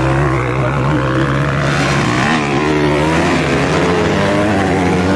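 Motocross motorcycle engines running hard and revving, their pitch wavering up and down without a break.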